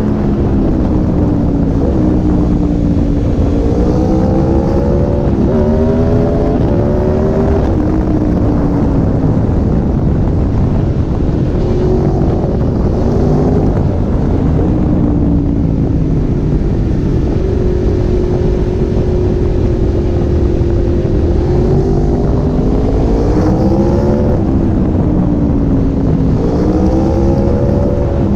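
2014 Aprilia RSV4 APRC's V4 engine under riding load, its pitch climbing and dropping back several times as it pulls through the gears, with a steadier cruising stretch in the middle. A heavy low rush of wind on the tank-mounted microphone runs underneath.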